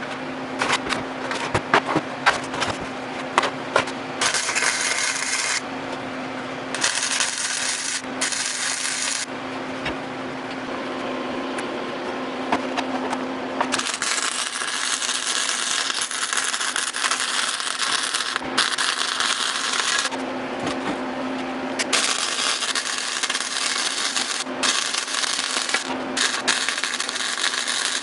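Flux-core wire welder laying short welds, a dense crackling hiss that starts and stops abruptly in runs of one to several seconds. Sharp clicks come in the first few seconds, and a steady low hum runs underneath.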